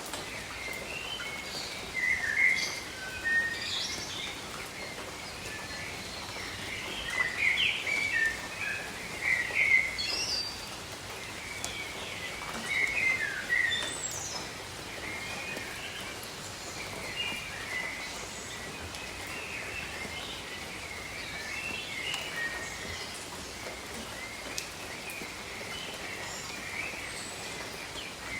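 Steady rain hiss over a tropical forest with birds chirping and calling, most busily in the first half.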